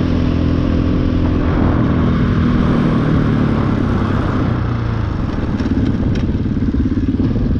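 KTM 500 EXC dirt bike's single-cylinder four-stroke engine running under the rider, its pitch easing down over the first few seconds and then holding at low, even revs. A few light ticks about six seconds in.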